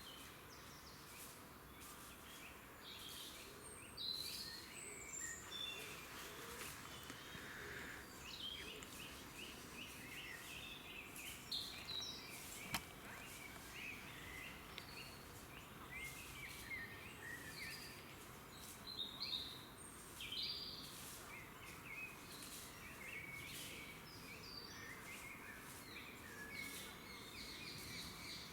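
Woodland birds calling and chirping, many short high notes and brief trills scattered throughout over a steady background hiss.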